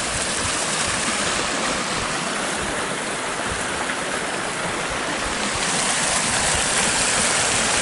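Runoff water rushing steadily over a pond dam's spillway after heavy rain, growing a little louder near the end.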